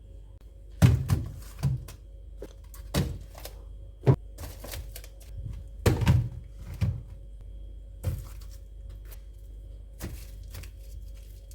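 Irregular thuds and knocks, about ten of them and some sharp, from things being handled and set down in a small room, over a faint steady hum.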